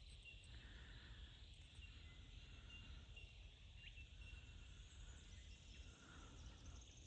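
Near silence: faint bush ambience with a low steady rumble and a thin, high call repeating about once or twice a second.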